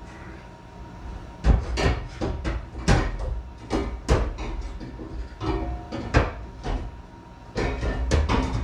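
Welded steel turbo downpipe clanking and knocking irregularly against metal as it is worked into place in the engine bay, with a string of sharp knocks, some leaving a short metallic ring.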